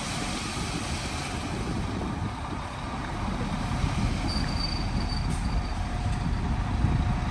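Heavy construction machinery running at a steady rumble. A faint, thin, high squeak comes and goes briefly about two-thirds of the way through.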